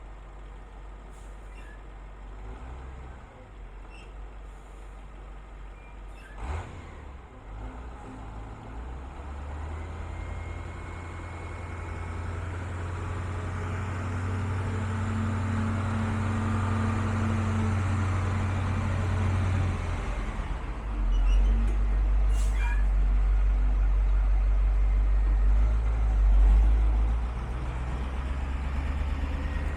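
A 1978 GMC Brigadier tandem truck's engine running with a low, steady note. It grows louder from about ten seconds in, then drops to a deeper, louder note about twenty seconds in, with a brief swell near the end. A sharp click sounds about six seconds in.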